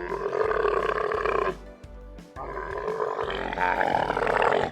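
Cattle mooing: two long, drawn-out calls, the first ending about a second and a half in and the second starting just after two seconds.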